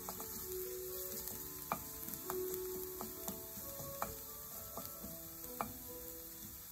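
Garlic, onion, spring onions and ginger sizzling in oil in a stainless steel pan, stirred with a wooden spatula that knocks against the pan several times.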